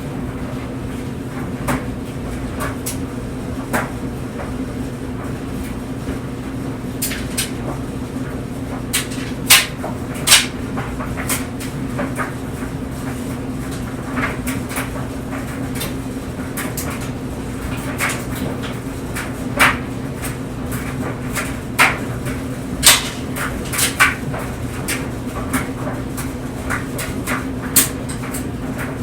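Clothes dryer running with clothes tumbling in the drum: a steady hum with irregular sharp clicks and knocks as the load falls and hits the drum.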